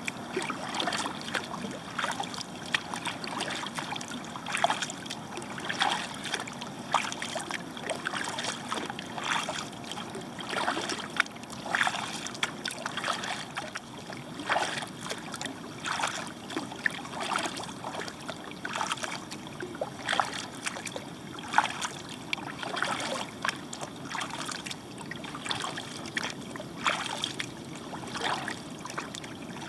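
Kayak paddle blades dipping into flat lake water stroke after stroke, with repeated small splashes and drips, about one or two a second.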